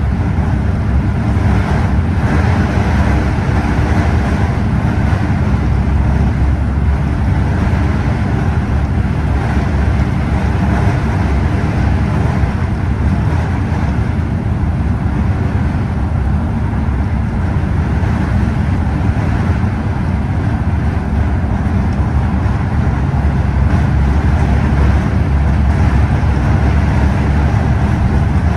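Scania OmniExpress express coach under way: a steady engine drone with road rumble, getting slightly louder near the end.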